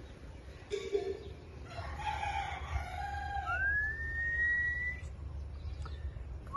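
A rooster crowing, a drawn-out call lasting about a second and a half, followed by a single clear whistle that rises and then holds steady for about a second and a half.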